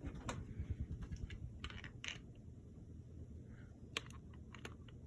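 Monte Carlo cast ceiling fan running steadily on medium speed, a low even hum and air noise, with a few scattered light clicks.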